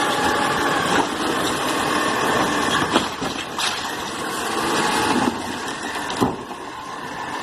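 Garbage truck engine running steadily, with a few sharp clanks about three seconds in and again near the end.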